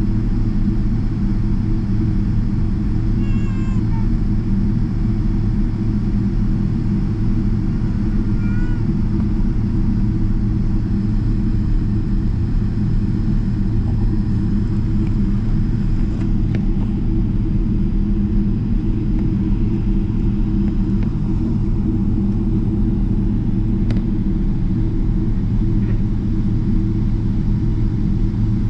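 Steady low rumble inside the cabin of a Boeing 777-300ER taxiing, its engines at taxi power. Two brief high squeaky sounds rise and fall about three and eight seconds in.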